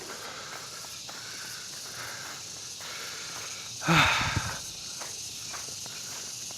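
Footsteps outdoors over a steady high hiss, with one much louder thump about four seconds in.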